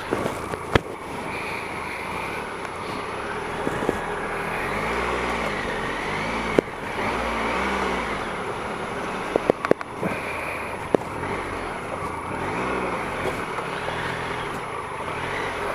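Triumph Explorer 1215cc three-cylinder engine pulling at low speed, its revs rising and falling over and over as the bike is worked through deep muddy ruts. A few sharp knocks cut in: one about six seconds in, a quick cluster near ten seconds, and another a second later.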